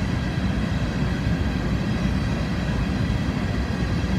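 Loaded coal hopper cars of a long freight train rolling slowly past: a steady low noise of steel wheels on rail, with faint steady higher tones over it.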